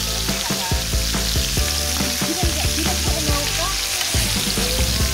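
Pork belly sizzling on a cast-iron pot-lid griddle, with metal tongs clicking and scraping against the lid as the slices are moved.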